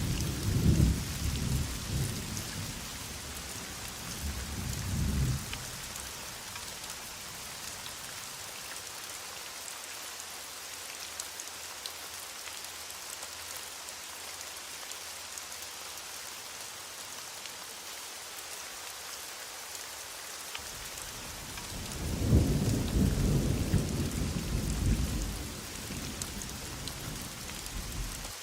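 Heavy rain falling steadily, with low rolls of thunder. There is one rumble at the start, a shorter one about five seconds in, and a longer one from about twenty-two seconds that lasts a few seconds.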